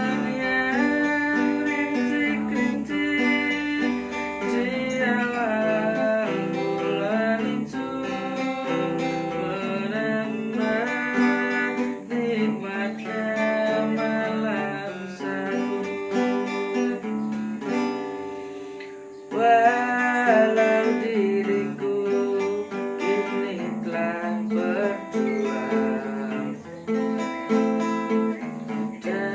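Acoustic guitar music: strummed chords under a plucked melody line, playing without a break except for a brief softer moment about two-thirds of the way through.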